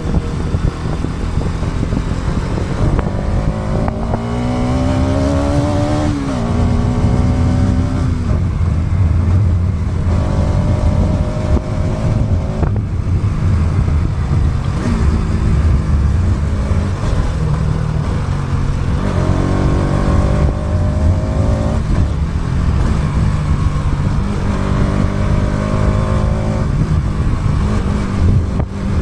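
Motorcycle engine running while riding, rising in pitch as it accelerates and dropping sharply at a gear change about six seconds in, then climbing again around twenty seconds. A heavy wind rumble on the action camera's built-in mic lies under it.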